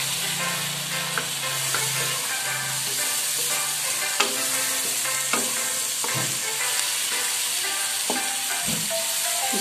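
Sausage pieces and sliced onion sizzling in teriyaki sauce in a wok, stirred with a wooden spatula that now and then scrapes and knocks against the pan.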